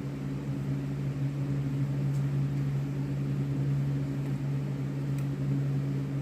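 A steady low mechanical hum, like a fan or household appliance running, with a couple of faint clicks.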